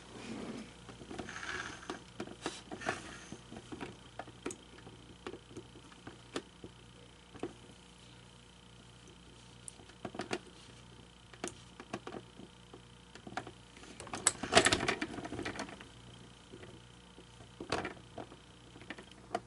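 Scattered small clicks and light knocks of plastic parts being handled and worked on, with a louder clatter lasting about a second and a half, around fifteen seconds in.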